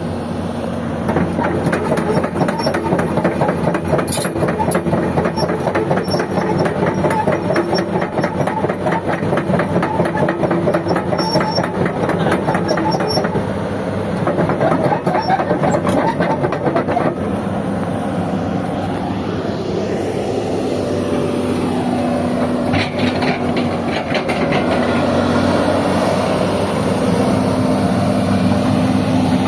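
Sany 210 hydraulic excavator's diesel engine running steadily, with a shift in pitch about two-thirds of the way through.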